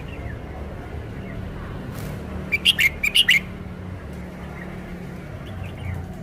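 Red-whiskered bulbul singing: a quick, loud phrase of five or six sharp notes about halfway through, with a few fainter chirps before and after, over a steady low hum.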